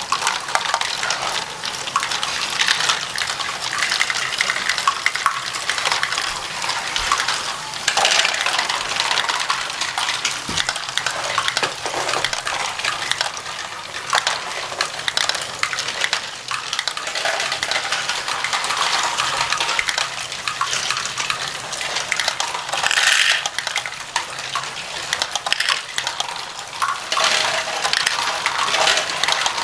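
Lego bricks clattering: a continuous rattle of many small hard plastic pieces clicking against each other as they are handled, with a few louder flurries.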